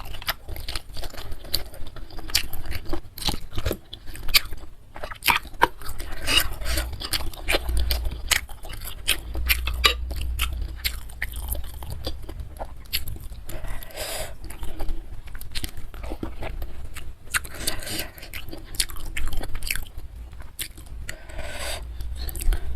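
A person chewing and biting food close to the microphone, with many small sharp mouth clicks and short bursts of chewing noise. The food is spicy bakso meatball soup with soft chicken feet and noodles.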